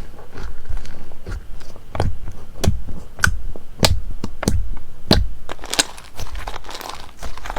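Slime being squeezed and pressed, giving a string of sharp pops about every half second that turn into denser crackling late on.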